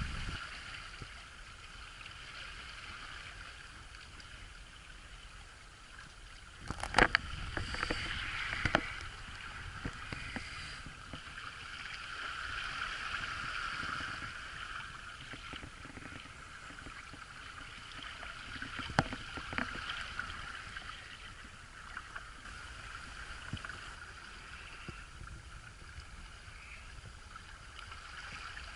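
Water rushing and splashing along a Hobie sailboat's hull under sail, as a steady hiss. Sharp knocks come about seven, nine and nineteen seconds in.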